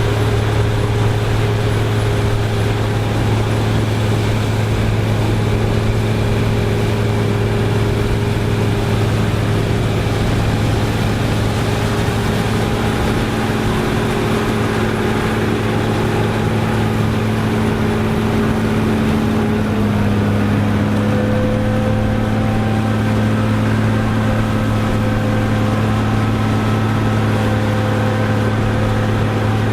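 Farm machinery engine running steadily. Its pitch shifts slightly about twenty seconds in.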